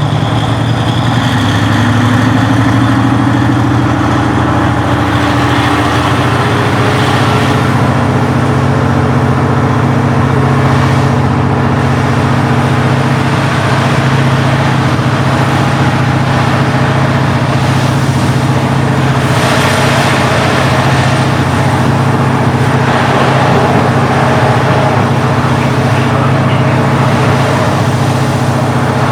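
Diesel engine of a KiHa 40-series railcar, its original unreplaced engine, running steadily under power. The pitch rises over the first few seconds, then holds level.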